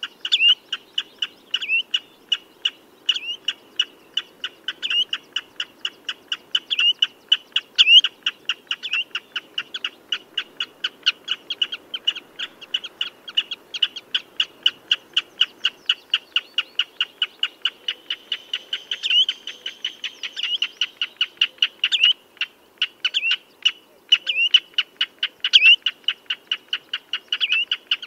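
Common redshank calling: a fast, unbroken series of short piping notes, about four or five a second, with louder down-slurred notes every second or two.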